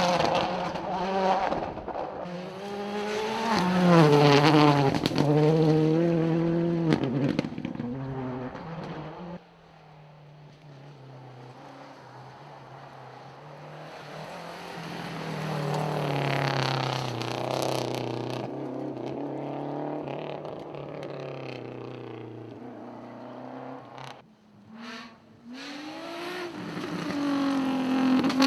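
Rally cars passing at speed on a closed stage, engines revving hard and changing pitch as they go by. One loud pass peaks about four seconds in, the sound drops sharply near ten seconds, and a second car swells up and fades away around seventeen seconds.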